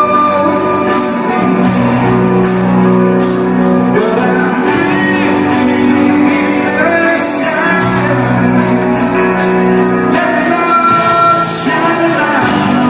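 Live rock band playing loudly, with sung vocals over guitars, in a large concert hall.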